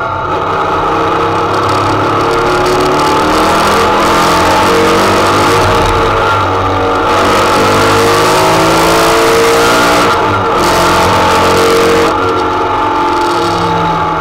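Air-cooled 2.6-litre Type 4 flat-four race engine with Weber 48 IDA carburettors and a 4-into-1 header, heard from inside the Beetle's cockpit while driven hard. It climbs in pitch under load and drops back several times, about 7, 10 and 12 seconds in.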